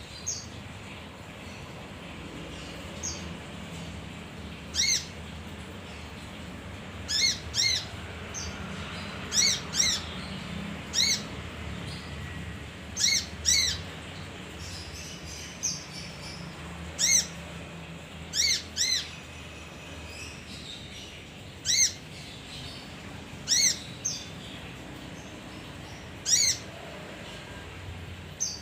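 Male kinoi songbird calling with short, sharp, high chirps, often in quick pairs and spaced a second or several apart, over a steady low hum.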